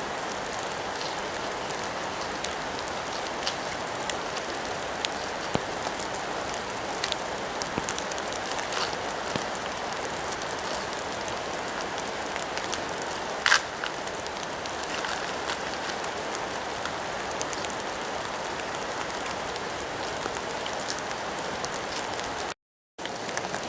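Steady rain falling, with scattered sharp ticks through it and one louder click about halfway through. The sound drops out for an instant near the end.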